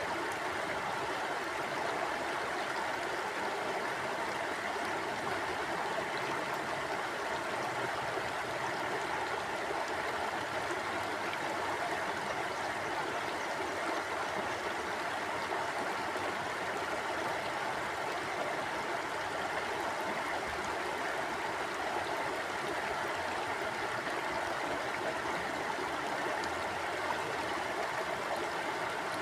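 A stream flowing steadily over rocks: a constant, even rushing and babbling of water.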